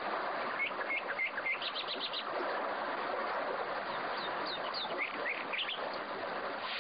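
Small birds chirping in short, quick calls, in one run about a second in and another around five seconds, over a steady hiss.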